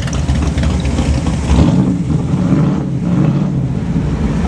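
Car engine running close by with a steady low rumble.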